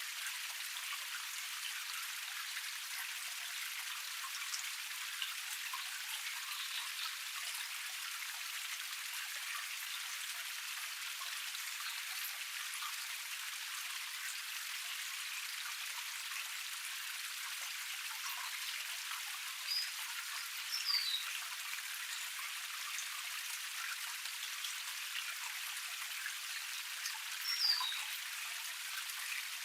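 Small forest cascade splashing and flowing steadily: a fine, hissy patter of falling water with no low rumble. A few short bird chirps come in about two-thirds of the way through and again near the end.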